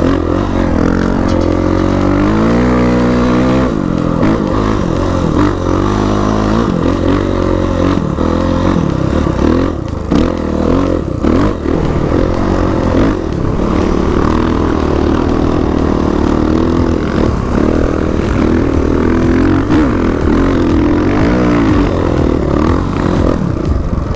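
Dirt bike engine being ridden hard off-road, its pitch rising and falling as the throttle is opened and closed, with a clear rev-up about two to three seconds in.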